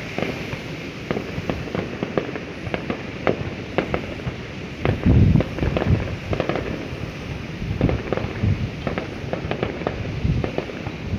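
Fireworks going off in a dense, irregular string of bangs and crackles, with the loudest, deepest booms about five seconds in.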